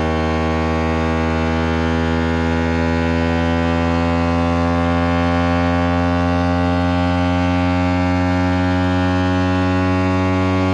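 Speaker-cleaner water-eject tone: a steady, loud, low electronic hum with many overtones, holding one pitch throughout. It is played through a phone speaker to vibrate water out of it.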